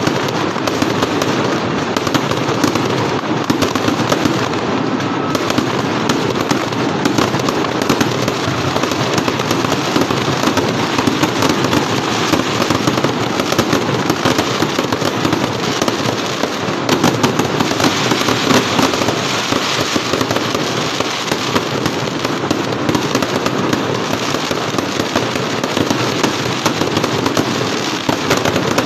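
Fireworks going off at close range: a dense, unbroken barrage of rapid crackling bangs that keeps up at a steady loud level.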